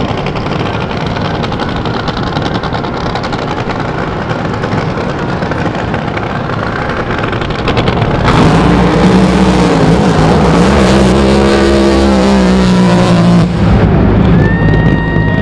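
Drag boat's engine running as a steady rumble. About eight seconds in it opens to full throttle for the launch and pass, much louder, its pitch wavering for about five seconds before cutting off sharply. A falling whistle-like tone follows near the end.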